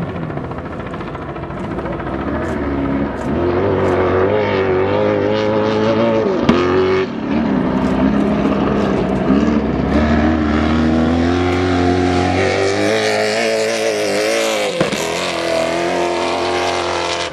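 Stadium Super Truck's V8 engine driven hard, its pitch rising and falling over and over as the throttle is worked, with a brief drop about seven seconds in and again near the end.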